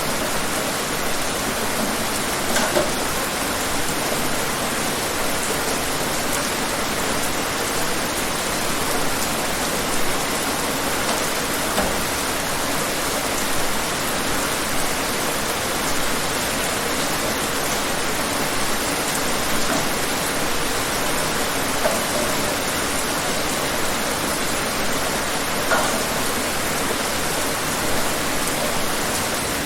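Steady, even rain falling, with a few louder drops or splashes now and then.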